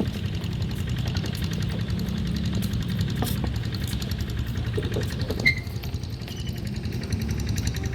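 A diesel locomotive engine running steadily, a low rumble with a fast even pulse, with a short high squeak about five and a half seconds in.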